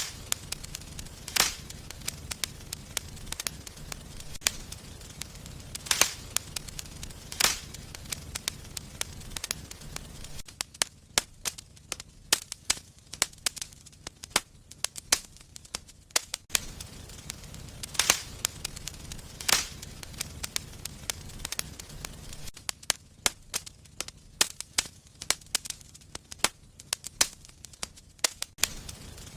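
Wood fire burning in a fireplace, crackling with irregular sharp pops and snaps, a few of them much louder. A low rumble of the flames sits underneath and fades out for a few seconds twice.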